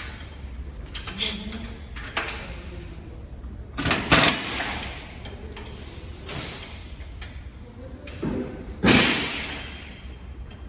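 A series of knocks and bangs, the two loudest about four seconds in and near nine seconds, each with a short ringing tail.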